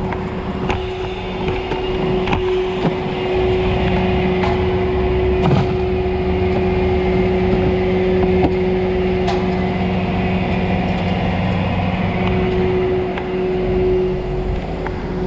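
A motor vehicle running steadily with a continuous droning hum, broken by a few sharp clicks or knocks.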